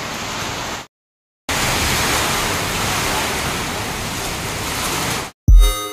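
Heavy rain pouring down, a steady hiss on the corrugated metal roof overhead and the parked cars. It cuts out completely for about half a second near the start, then stops just before the end with a loud low thump as music comes in.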